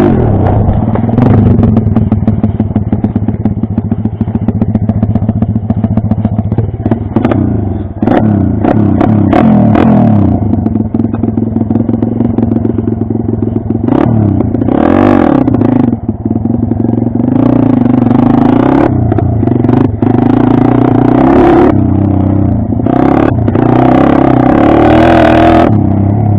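Pit bike engine running hard, its revs rising and falling again and again as it is ridden round a track, with occasional clattering knocks.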